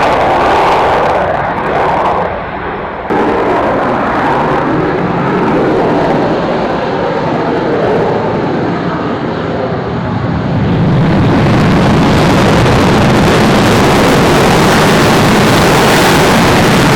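Aircraft engines at full power during a takeoff run and climb-out, a loud continuous roar. It drops briefly about two seconds in and grows fuller and deeper from about eleven seconds in.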